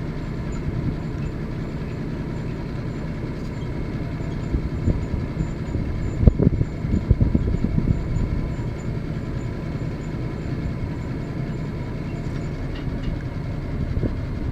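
Ford boom truck's engine running steadily, with a cluster of knocks and clunks about six seconds in.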